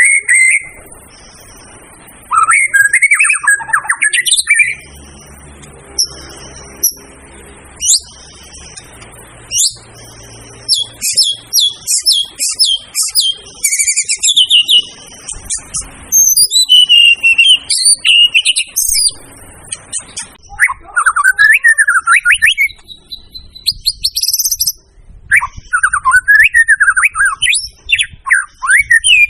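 White-rumped shama (murai batu) singing a loud, varied song of whistled phrases, rapid trills and sweeping notes, in bursts separated by short pauses.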